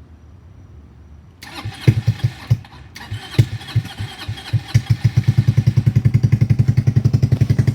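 Venom X22 GT 250cc motorcycle engine, fitted with an aftermarket carbon exhaust, being started. The starter cranks about a second and a half in, the engine catches with uneven firing for a few seconds, then settles into a steady idle with even exhaust pulses.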